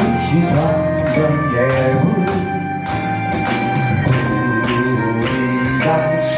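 Praise band playing the instrumental lead-in to a worship song: sustained chords and melody over a steady beat of percussion hits.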